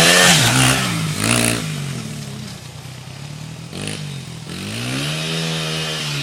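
Homemade dirt bike's engine revving up and down, then fading away for a couple of seconds. It comes back with rising revs about four and a half seconds in and holds steadier near the end.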